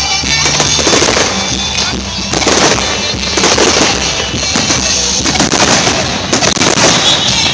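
Fireworks going off in an irregular string of sharp bangs and crackles, some coming in quick clusters.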